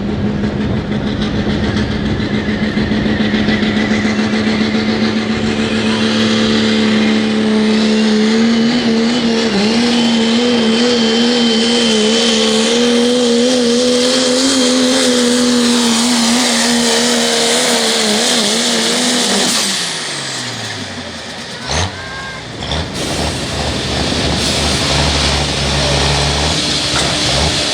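Pro Stock diesel pickup truck at full throttle pulling a sled. The engine note is held steady for most of the run and wavers in the second half as the truck bounces. About 20 seconds in the throttle comes off and the engine note falls away, a sharp crack follows, and then the engine runs lower and rougher.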